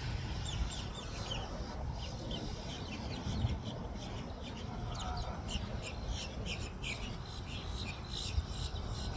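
Birds chirping busily, many short high chirps in quick succession, over a steady low rumble.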